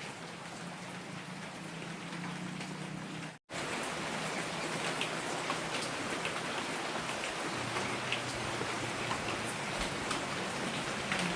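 Heavy rain falling steadily, with scattered sharp drop taps through the hiss; the sound breaks off for an instant about three seconds in, then resumes slightly louder.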